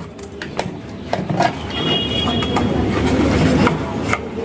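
Steady rumble of passing traffic, with small clicks and a faint, brief high beep about two seconds in.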